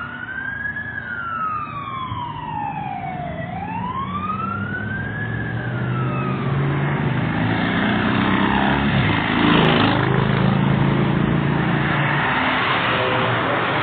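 Fire engine's wail siren sweeping slowly up and down, fading out after about two cycles as the engine pulls away. A louder steady rushing noise with a low engine hum then builds and takes over.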